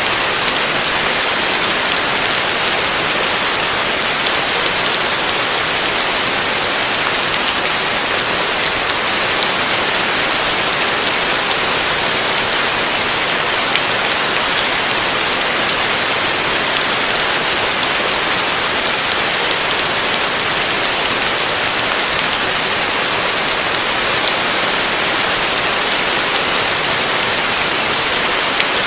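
Heavy rain falling steadily on a roof: a dense, even hiss of countless drops with fine individual drop hits through it, unchanging throughout.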